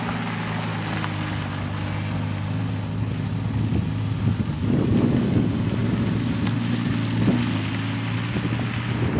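Lamborghini Gallardo's V10 engine through a Capristo exhaust, idling steadily, then running louder and rougher from about halfway in.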